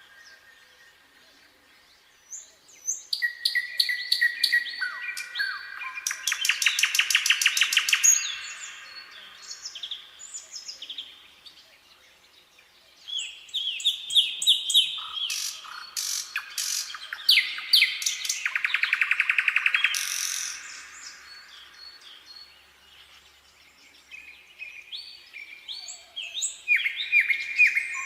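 Nightingale singing: separate phrases of varied whistles and chirps with pauses of several seconds between them, two of them building into a fast, loud run of repeated notes.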